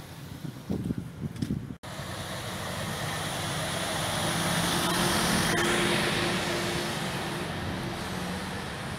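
A motor vehicle driving past on the street: engine hum and tyre noise build to a peak about five or six seconds in, then fade.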